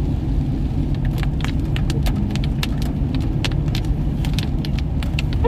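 Steady low road and engine rumble inside a moving Toyota Fortuner, with irregular sharp ticks scattered over it several times a second.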